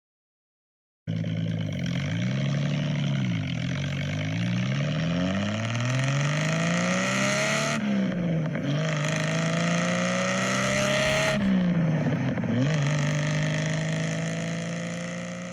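Car engine accelerating hard: its pitch climbs, drops back at two gear changes, then holds steady and fades near the end.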